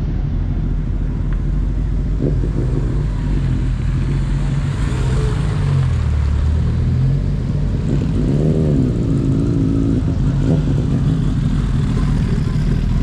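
Car engine running, its pitch dipping and rising again about midway.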